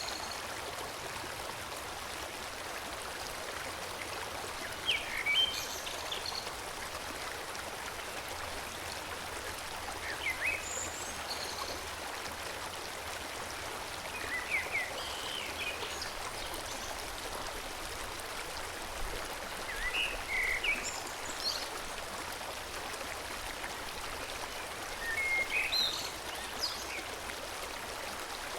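Forest stream flowing steadily, with a bird singing short phrases every few seconds.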